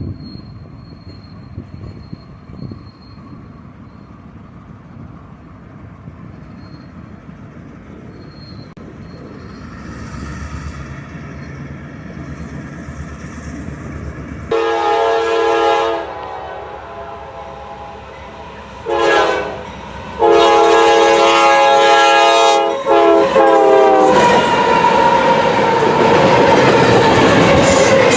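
Train rumbling closer, then a locomotive air horn sounds a long blast, a short one and a long held blast. After the horn the train passes close, with loud wheel and rail noise and wheels clicking over the rail joints.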